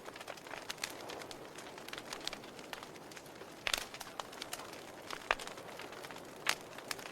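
Wood fire in a fireplace crackling: a soft steady hiss with frequent small snaps and a few sharper pops, the loudest about midway and near the end.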